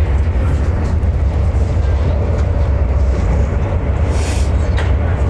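Steady low rumble of a passenger train, heard from on board, with a brief hiss about four seconds in.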